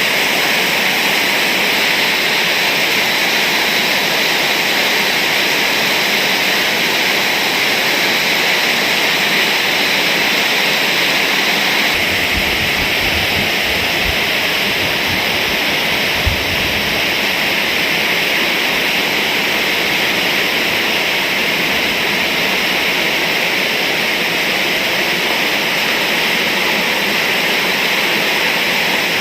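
Heavy rain pouring down hard in a steady, loud hiss, with a few low rumbles near the middle.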